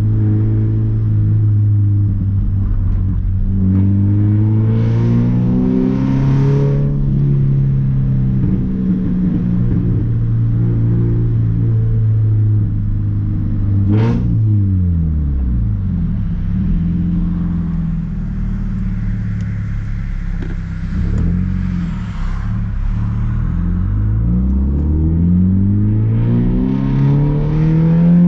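Scion FR-S's 2.0-litre flat-four with the muffler and resonator deleted, its exhaust note repeatedly rising under acceleration and falling between gears. About halfway through there is a single sharp crack just as the revs drop.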